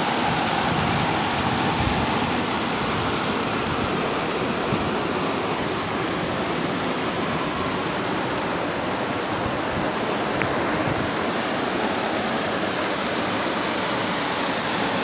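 Heavy rain pouring, with water running: a steady, even rushing hiss.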